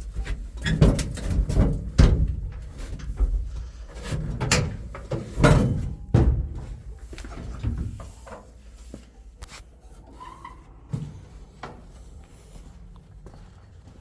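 Clunks, clicks and knocks of someone getting out of a 1963 Chevy C10 pickup's cab, the cab door working, with heavy handling thumps. The sounds die down to scattered light clicks after about seven seconds.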